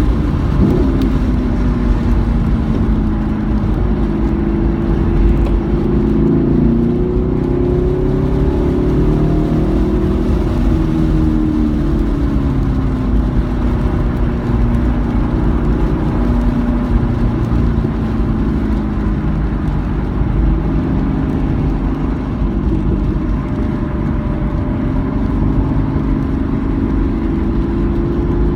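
Car engine driven hard around a racetrack, its pitch climbing and dropping repeatedly as it accelerates, shifts and slows, over a steady low rumble.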